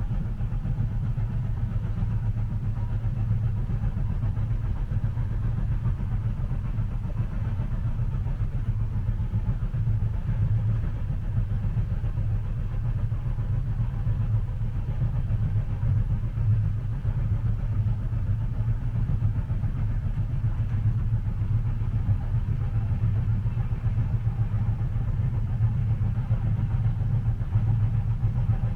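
Steady low rumble of a moving train heard from inside a passenger car, an even drone with no distinct rail clacks.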